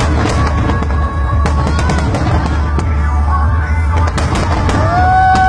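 A fireworks display bursting in repeated sharp cracks over a continuous low rumble, with music playing loudly at the same time; a strong held note sounds near the end.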